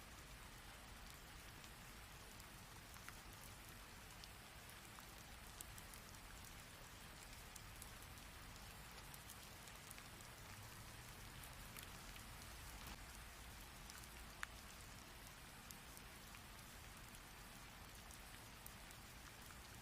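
Faint, steady rain: an even hiss with scattered sharp ticks of single drops, one louder drop about three quarters of the way through.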